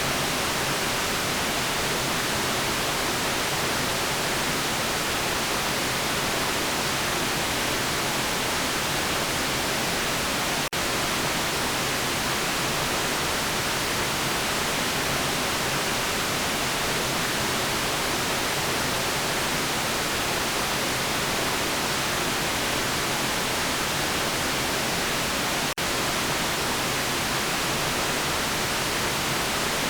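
Steady white noise: an even, unchanging hiss across the whole range, strongest in the treble. It drops out for an instant twice, about 11 and 26 seconds in.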